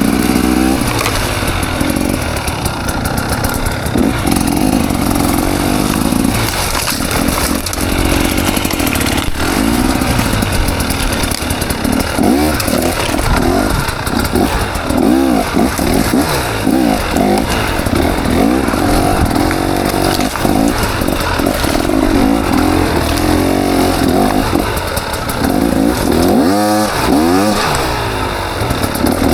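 KTM 300 XC two-stroke dirt bike engine revving up and down over and over, its pitch rising and falling about once a second, with a sharp climb in revs near the end.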